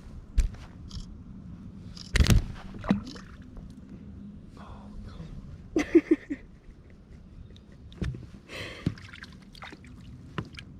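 Scattered knocks, clicks and rustles of handling aboard a kayak while a deeply set hook is worked out of a fish, the loudest a single thump about two seconds in.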